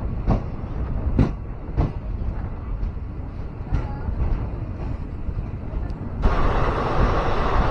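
Passenger train running along the track, heard from on board: a steady low rumble with sharp knocks of the wheels, three of them in the first two seconds. About six seconds in, a sudden louder rushing noise comes in and stays.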